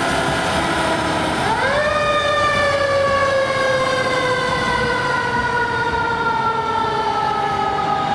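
Emergency vehicle siren wailing: the pitch winds slowly down, rises sharply about a second and a half in, then falls slowly again, over the steady rumble of the passing vehicle.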